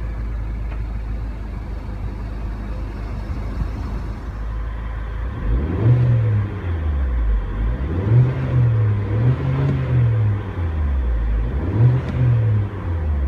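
Turbocharged 1.6-litre inline-four of a 2015 Mini Cooper S Countryman idling, then revved four times from about five seconds in, its pitch rising and falling back to idle each time.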